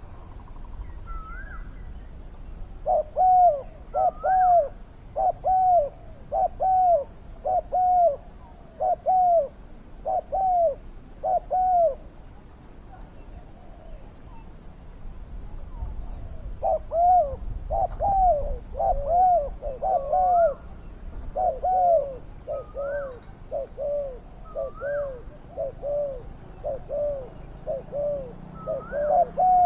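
Spotted doves cooing in long runs of repeated, arched notes. One run stops about twelve seconds in, and after a short pause a denser run starts in which two birds call over each other. Fainter, higher calls are scattered throughout.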